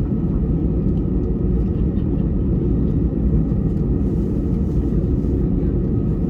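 Airbus A320 cabin noise on the ground before takeoff: the engines running at low power with a steady, deep rumble.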